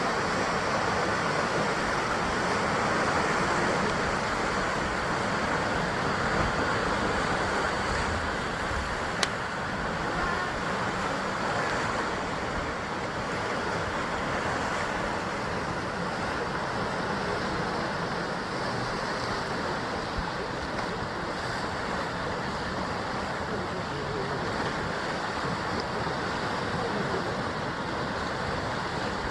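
Sea surf washing and breaking against a rocky basalt coastline, a steady rushing wash of water. There is a single brief click about nine seconds in.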